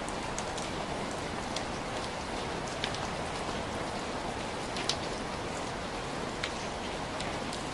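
Heavy rain falling steadily, an even hiss with scattered sharper drop taps, a few louder ones standing out.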